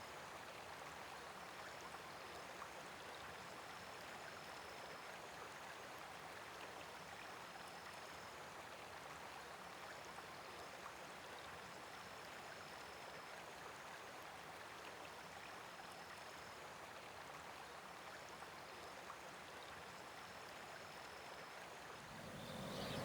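Faint, steady rushing of a stream, with short high chirps repeating every second or two.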